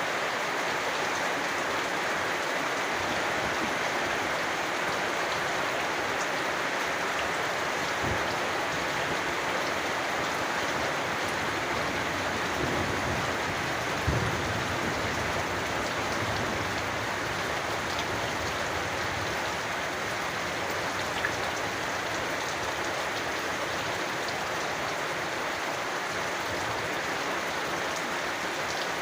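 Steady rain falling on surfaces, an even hiss of drops, with a brief low thump about halfway through.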